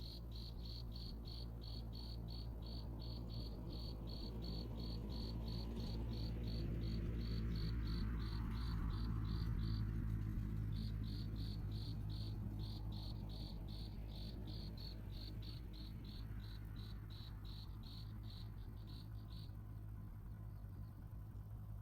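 Cricket chirping in an even series of short, high chirps about three a second, pausing briefly about ten seconds in and stopping about three seconds before the end, over a steady low hum.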